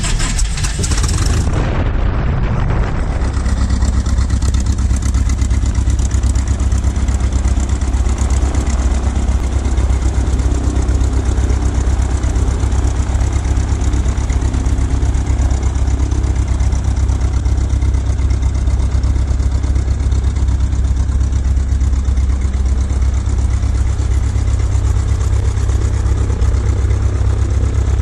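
Light aircraft piston engine running at a steady speed, a loud, even low drone, after a stretch of music cuts off about two seconds in.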